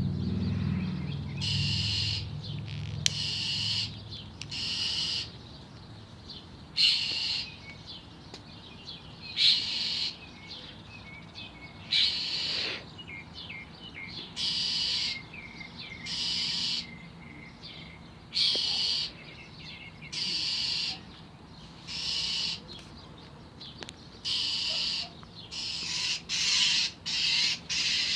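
An agitated bird giving harsh, hissing calls, each under a second long, repeated about every one to two seconds and coming faster near the end: the scolding of a bird angry at a cat.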